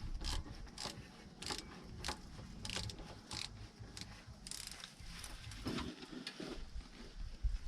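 Hand tools clicking and clinking on metal, irregular sharp clicks about every half second, as a Jawa 634 motorcycle engine is taken apart.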